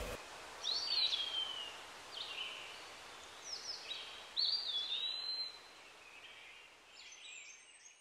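Birds calling: a handful of short, clear whistled notes that swoop up and then slide down, spaced about a second apart, with fainter high chirps near the end over a soft outdoor hiss.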